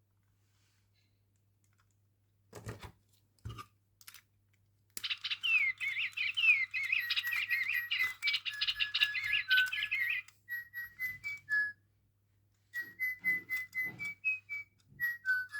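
An electronic toy bird chirping and tweeting. After a few clicks, a rapid run of chirps starts about five seconds in. It turns into short whistled notes that step up and down in pitch, with brief pauses.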